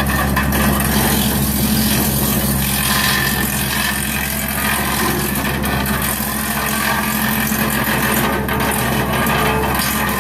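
A tractor running a BX42S three-point-mounted PTO wood chipper, a steady mechanical drone with a low, even hum from the engine and the driveline.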